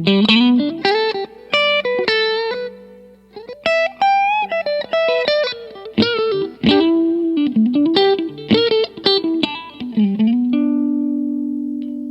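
PRS Modern Eagle V Wood Library electric guitar playing a single-note lead lick with string bends and vibrato, ending about ten and a half seconds in on one long held note that slowly fades.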